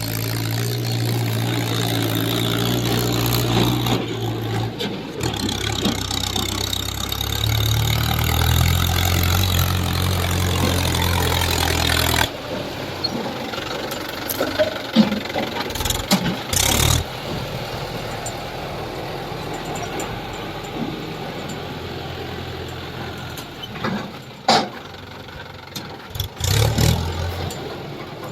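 Heavy diesel machinery working: an engine runs loud, its pitch shifting up and down, then drops away sharply about twelve seconds in. A quieter engine hum follows, broken by several sharp knocks and clanks.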